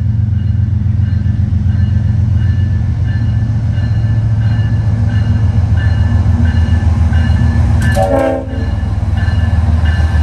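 Diesel-electric freight locomotives running past under power, a loud steady deep engine rumble with faint broken higher tones above it. A brief wavering tone cuts in about eight seconds in.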